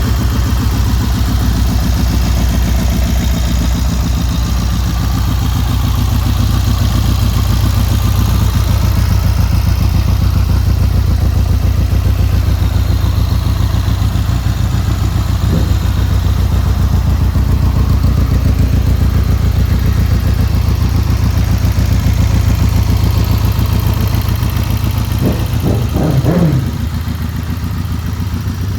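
Triumph Bonneville's parallel-twin engine running at a steady idle with an even, pulsing beat. It is revved briefly about halfway through and blipped a few times in quick succession near the end, after which the sound drops a little.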